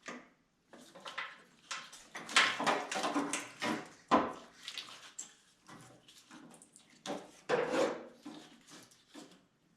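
Irregular clanks, knocks and scrapes as a Camaro engine and transmission hanging from a hoist are shifted and worked loose, still catching on a motor mount; the sharpest hits come about two and a half, four and seven and a half seconds in.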